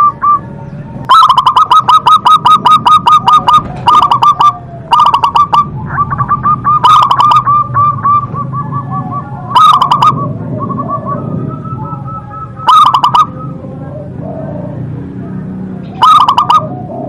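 Zebra dove (perkutut) cooing in bursts of quick staccato notes. There is a long run about a second in, then shorter phrases every few seconds.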